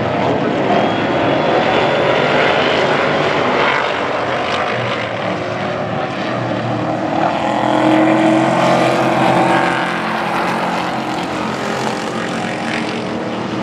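Pack of Pro Truck race trucks running at racing speed, several engines overlapping, the sound swelling about eight seconds in as the trucks pass closest.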